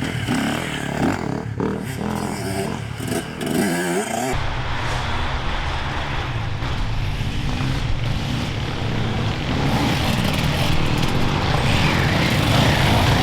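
Enduro dirt-bike engines revving, rising and falling in pitch for the first few seconds. After that a rougher, steadier engine sound builds slowly louder toward the end.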